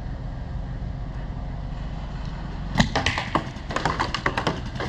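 Paintball marker firing a rapid string of shots, starting about three seconds in and running on, several pops a second. Underneath is a steady low rumble.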